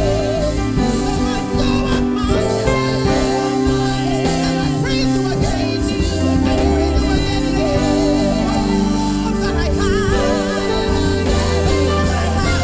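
Live worship music: a band with sustained bass and chords under a singer's wavering melody, loud and steady.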